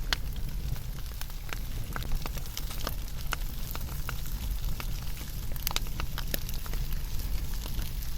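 Wood fire burning, with irregular sharp crackles and pops of the burning wood over a steady low rumble.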